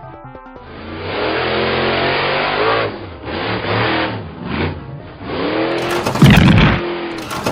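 Cartoon vehicle engine sound effect, revving up and down several times, with a short burst of rapid clicking at the start and a louder rev about six seconds in.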